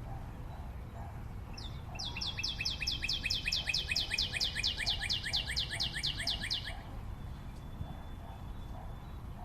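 A bird calling: a fast run of repeated high notes, each sliding downward, about five a second, lasting about five seconds, over a steady low rumble.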